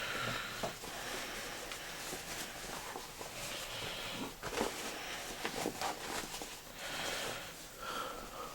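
Rustling and handling noise as a pair of cloth cargo pants is moved about and unfolded, with scattered soft knocks.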